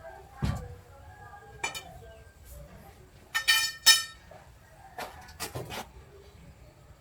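Metal objects clinking and knocking, as when tools or parts are handled: a dull knock about half a second in, then a quick run of loud, ringing clinks around the middle and a few more near the end.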